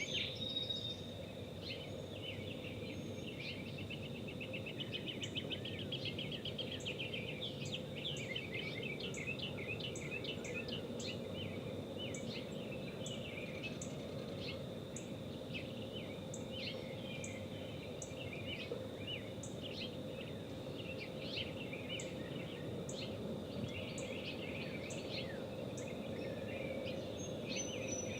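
Wild songbirds chirping and trilling outdoors over a steady background hiss, with a thin constant high tone and faint high ticks about once a second.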